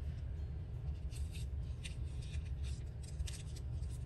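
Paper scraps being handled and placed: several short, soft rustles and crinkles, over a steady low hum.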